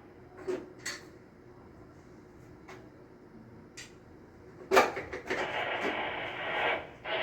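Scattered light clicks and knocks of objects being handled, then a sharp knock nearly five seconds in followed by about a second and a half of rough hissing or scraping.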